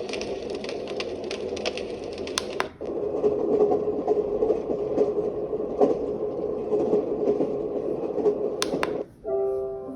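Fourair travel white noise machine's small speaker playing its built-in ambient sound loops, switching tracks twice. First comes a dense crackling, then after a brief gap a steadier noisy hum with scattered clicks. Near the end a clean chiming melody begins.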